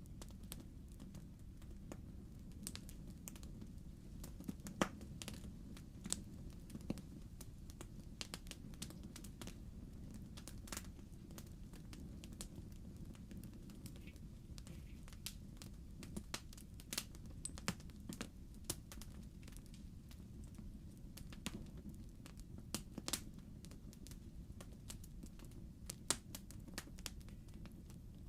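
Fireplace fire crackling: irregular sharp snaps and pops over a faint, steady low rumble.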